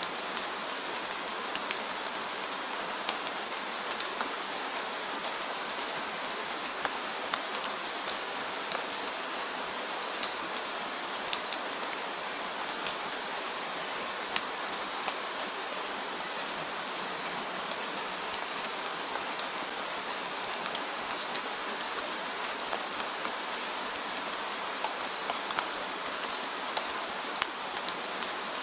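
Steady rain falling, a continuous hiss with scattered sharp drips and drop ticks throughout.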